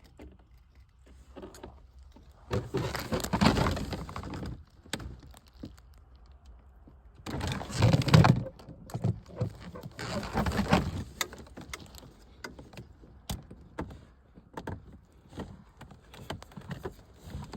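Handling noise from plumbing work: scattered clicks and knocks, with three longer rustling, scraping stretches of a second or two each.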